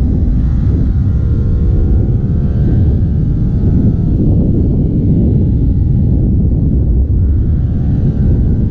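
Kawasaki Ninja 400's parallel-twin engine under way, its revs rising and falling, mostly buried under heavy wind rumble on the microphone.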